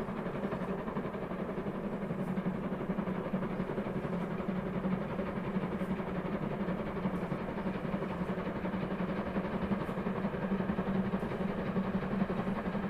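A steady low mechanical hum, like a motor running, with a few faint ticks.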